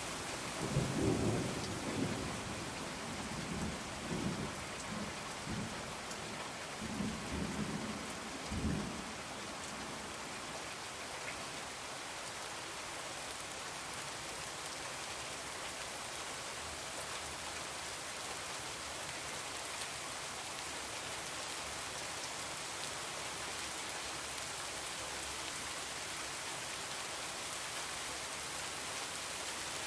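Heavy rain falling steadily, with thunder rumbling in several rolls over roughly the first nine seconds, then the rain alone.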